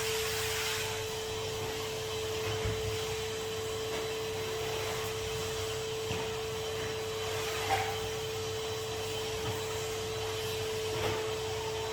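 Numatic Henry HVR200 620 W vacuum cleaner running steadily, its motor giving a constant whine over a rush of air.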